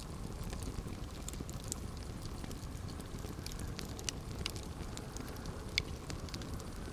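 Campfire burning: a steady low rush of flames with scattered crackles and sharp pops from the burning wood, the loudest pop near the end.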